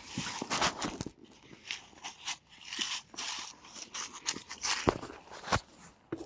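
Irregular crunching and crackling, a rapid uneven run of sharp clicks and crunches that stops abruptly.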